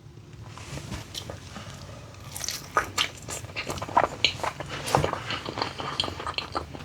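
Close-miked chewing of a bite of sweet potato topped with buffalo chicken dip: irregular wet mouth clicks and smacks, faint at first and busier from about two seconds in.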